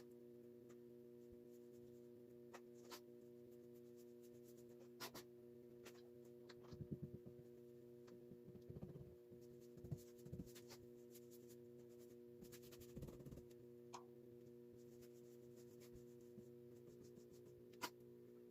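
Faint steady hum, with scattered light clicks and a few soft low knocks of small objects being handled.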